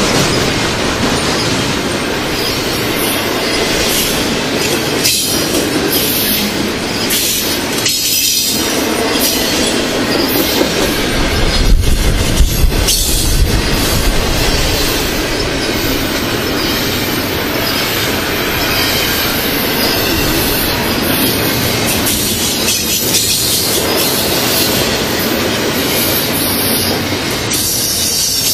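Double-stack container well cars of a freight train rolling past at speed: a steady clatter of wheels on rail, with a louder stretch of low rumble about twelve seconds in.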